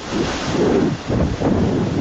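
Storm wind gusting hard against the microphone in uneven buffeting surges.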